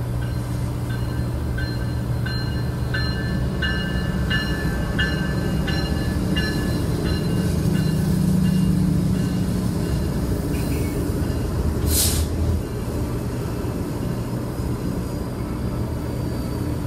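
Diesel freight locomotives rumbling as they pull close past. A bell rings about one and a half strokes a second for the first several seconds, and there is a brief hiss about twelve seconds in.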